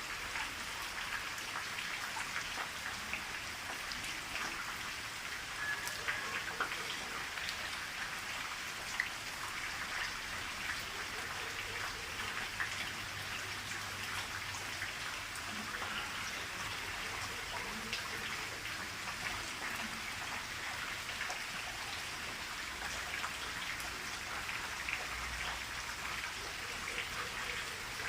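Steady rain falling, with many separate drop hits heard as short ticks over an even hiss.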